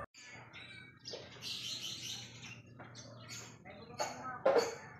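Small birds chirping: scattered short, high-pitched calls.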